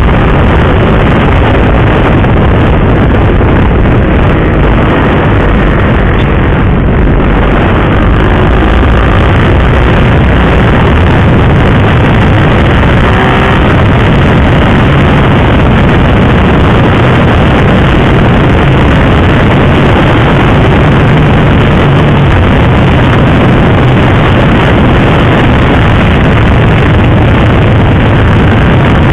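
Motorcycle ridden at a steady pace: the KTM RC 390's single-cylinder engine running under a constant rush of wind noise on the microphone, with no revving changes.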